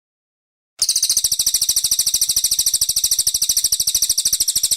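Brown cililin song: a rapid, very even high-pitched trill of about fourteen notes a second, starting about a second in.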